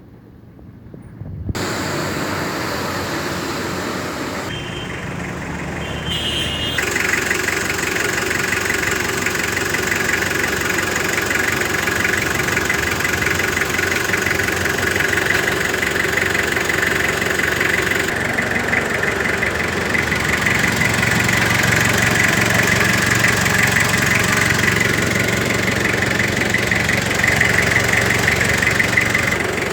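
Toyota Qualis GST's 2.4-litre 2L-II diesel engine comes in suddenly about a second and a half in, then idles steadily. It gets a little louder around seven seconds in.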